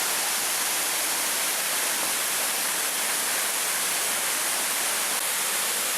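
Waterfall running hard after heavy rain: a steady, unbroken rush of falling water.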